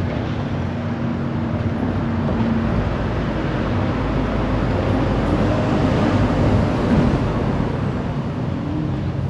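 A motor vehicle driving past on a village street, its engine and tyre noise swelling to a peak about seven seconds in and then easing off.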